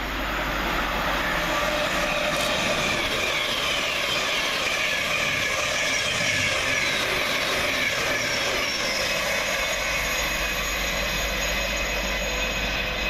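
Thameslink Class 700 electric multiple unit passing through the station at speed: a steady rush of wheels on rail, with whining tones that slowly fall in pitch as it goes by.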